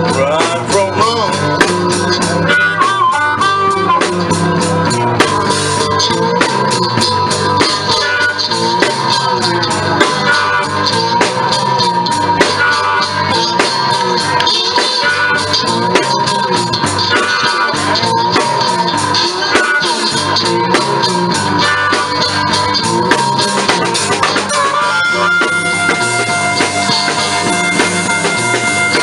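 Live blues band playing an instrumental passage: a harmonica holds and bends a high wailing note over a steady guitar and drum rhythm. The harmonica line settles into steadier held tones near the end.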